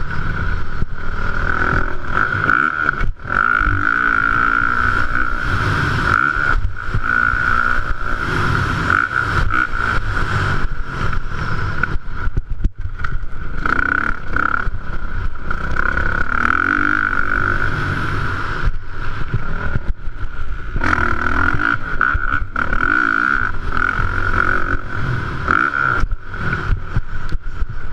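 Motocross bikes of the 450 class racing on the track, their engines running hard and revving with little let-up.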